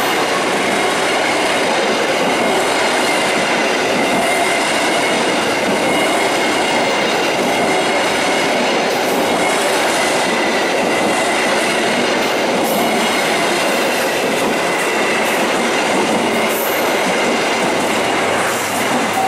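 Passenger train coaches rolling past at close range: a loud, steady rumble and clatter of steel wheels on the rails.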